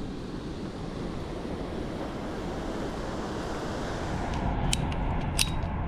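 Steady rushing of wind on the microphone, with a few sharp clicks between four and five and a half seconds in.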